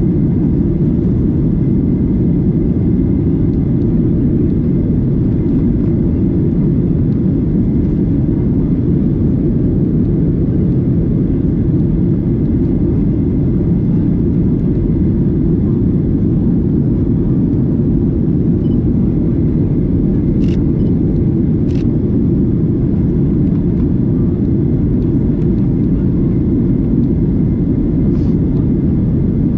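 Steady cabin rumble of a Boeing 737-900ER airliner: engine and airflow noise holding an even level throughout, with a faint steady whine over it. Two short clicks about two-thirds of the way through.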